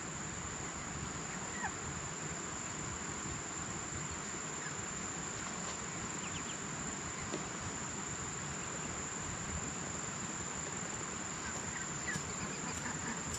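Steady, high-pitched insect trill held on one note over an even background hiss, with a few faint short chirps; the trill cuts off suddenly at the end.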